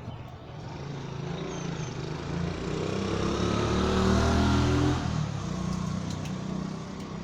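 A motor vehicle passes close by on the street. Its engine grows steadily louder, then drops in pitch and level as it goes past about five seconds in.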